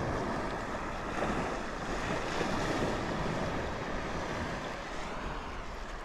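Steady rushing of wind on the microphone mixed with sea water washing around a kayak.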